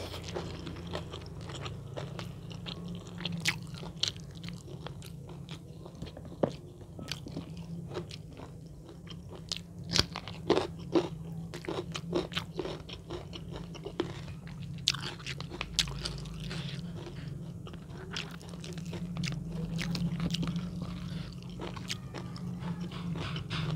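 A person chewing and biting crunchy food close to the microphone, with irregular sharp crunches that cluster around ten to eleven seconds in, over a steady low hum.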